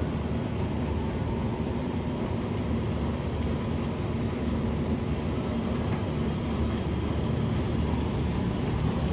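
PATH train of Kawasaki PA5 cars at a station, giving a steady low rumble with no clear change in level.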